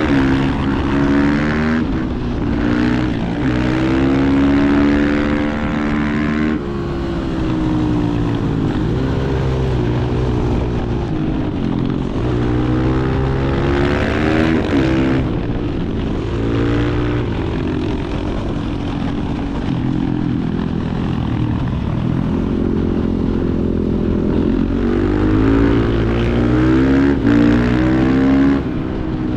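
Supermoto motorcycle engines running hard, revs climbing and dropping again and again as the bike accelerates and slows.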